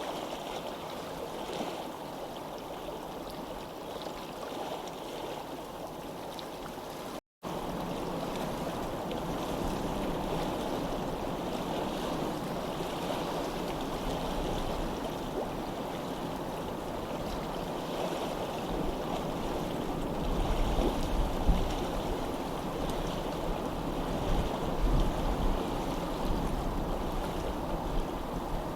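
Steady rushing of flowing stream water. It drops out for an instant about seven seconds in and comes back slightly louder, and from about twenty seconds in a low, uneven rumble joins it.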